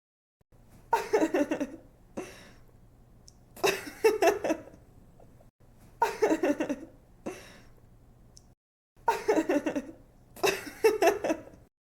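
A young woman giggling in repeated bursts of quick laughter, about six bursts with short gaps between them.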